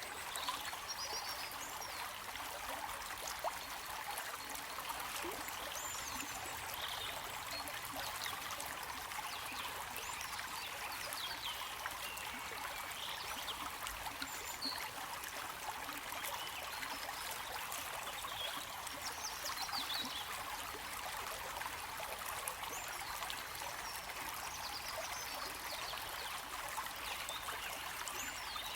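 Flowing stream water trickling steadily, with faint short high chirps now and then.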